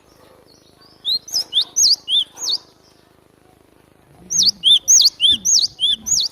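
Cinereous tit (glatik batu) singing two phrases of rapid, sharp, repeated whistled notes, the second starting about four seconds in.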